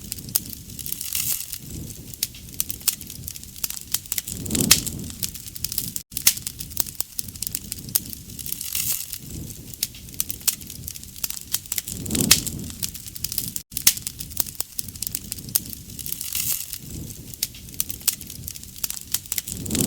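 Wood campfire crackling and popping steadily. The same few seconds of fire sound repeat, with a brief gap every seven or eight seconds.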